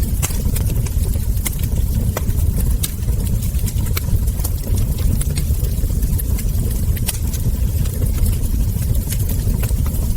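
Wood fire burning in a fireplace: irregular sharp crackles and ember pops over a steady low rumble.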